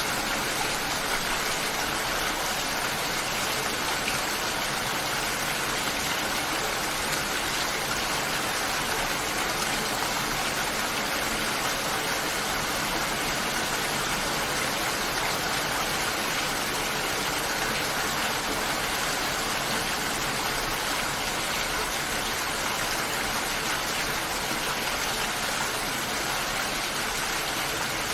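Steady heavy rain, an even dense hiss of many drops with no breaks.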